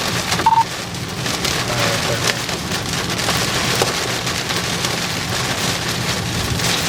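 Heavy rain pelting the storm-chase vehicle's roof and windshield, heard inside the cabin: a dense steady patter with many sharper ticks of drops striking. A short electronic beep sounds about half a second in.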